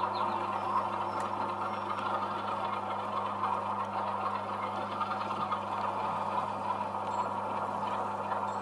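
OO gauge model locomotive running steadily along the track: an even mechanical hum with a constant low drone underneath.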